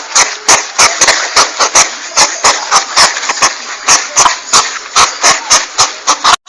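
Porcupine sounds: a fast, even run of short hissing puffs, about four to five a second, breaking off suddenly near the end.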